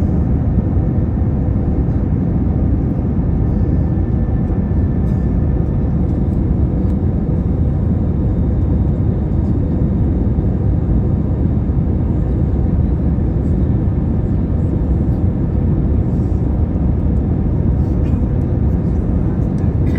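Steady low rumble of an airliner heard from inside the cabin, with faint steady tones from its engines over it, unchanging in level.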